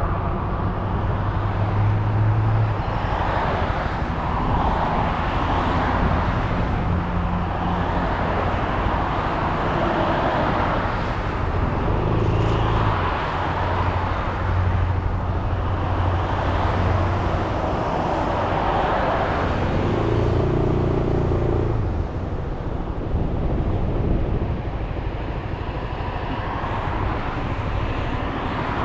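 Suzuki Burgman 400 scooter under way: its single-cylinder engine hum, rising and falling in pitch a few times, under continuous rushing wind and road noise on the scooter-mounted camera's microphone.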